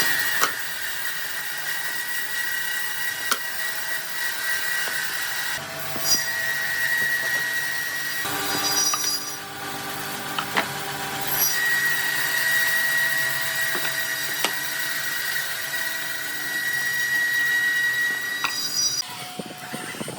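Woodworking power machinery running and cutting wood, a steady high-pitched whine with occasional sharp knocks, shifting abruptly several times.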